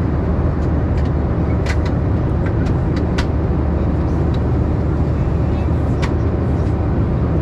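Cabin noise of a Boeing 737-700 in cruise: a steady, deep rumble of engines and airflow. A few small clicks come about two to three seconds in, and one more near six seconds.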